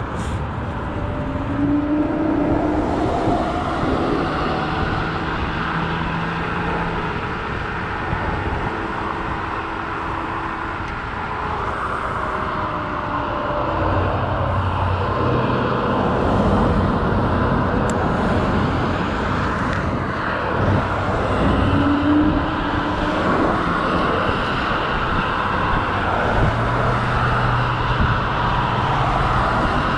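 Steady road and wind noise while riding an electric scooter along a road, with car traffic passing.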